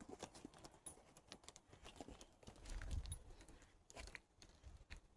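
Faint footsteps crunching on a trail, a scatter of small irregular crunches and clicks, with a low rumble on the microphone about three seconds in.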